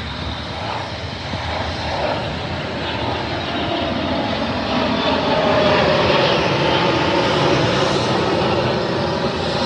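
Fixed-wing aircraft engine noise, growing louder to a peak a little past the middle, then easing slightly as the plane passes.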